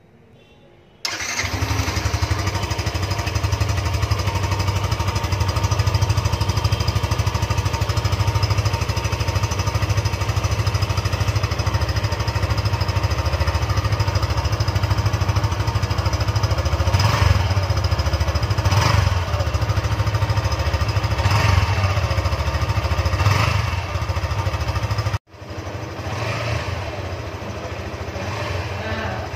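Stock exhaust of a Yamaha FZS V3's 149 cc single-cylinder engine running. It comes in suddenly about a second in and runs steadily, with four short throttle blips in the second half. Near the end it drops abruptly and carries on quieter.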